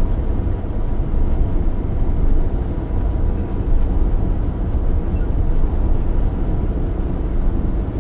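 Loaded truck driving on the road: a steady low rumble of engine and road noise, with a faint steady whine above it.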